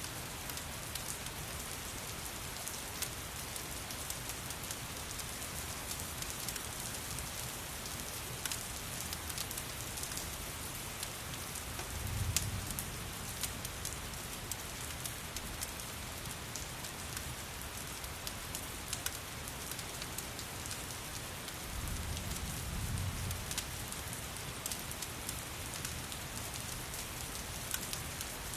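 Steady rain hiss mixed with the scattered crackles of a wood fire. Two low rumbles swell and fade, about twelve and twenty-two seconds in.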